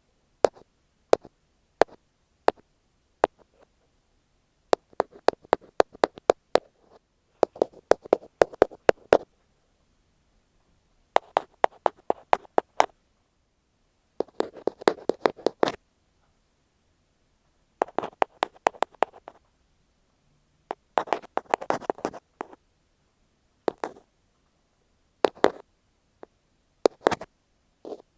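Ear pick tapping and rubbing directly on an earphone microphone, heard very close up. Sparse single taps alternate with quick flurries of rapid tapping every few seconds.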